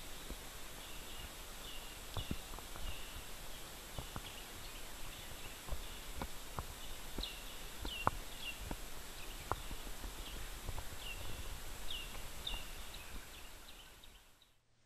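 Woodland ambience: short, high chirping calls repeat over a faint steady hiss, with scattered sharp clicks, and all of it fades out near the end.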